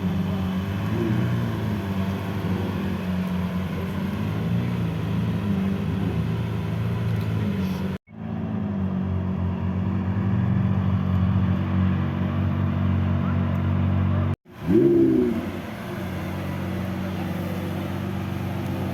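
Lamborghini engines idling with a steady deep rumble, and one short rev about fifteen seconds in. The sound cuts out twice for a moment.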